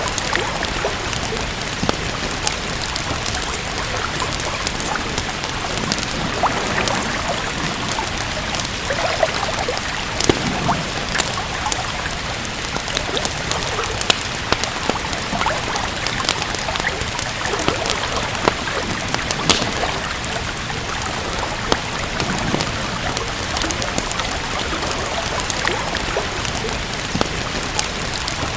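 Steady rain with a wood fire crackling: an even hiss of rain with scattered sharp pops and clicks from the fire.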